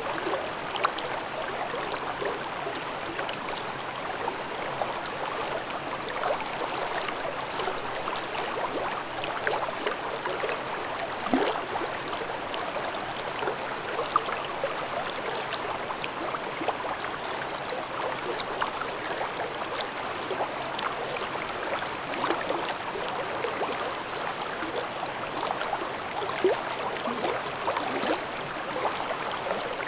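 Mountain stream babbling over rocks: a steady rush of water with many small gurgles and splashes.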